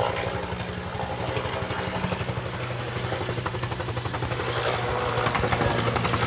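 Firefighting helicopter flying over, its rotor beating rapidly and evenly over a steady engine hum, growing louder toward the end as it comes closer.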